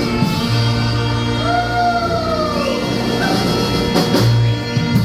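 Brass band playing live, with held notes over drums, and a voice sliding down in pitch between about one and a half and three seconds in.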